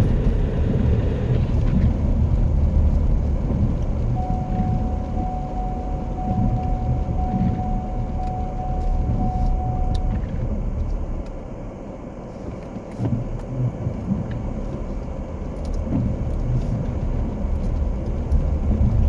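Car engine running, heard from inside the cab as a steady low rumble. About four seconds in, a run of short evenly spaced beeps sounds for some six seconds.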